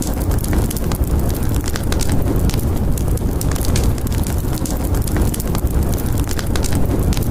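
Wood fire crackling with frequent sharp pops over a steady low rumble of snowstorm wind.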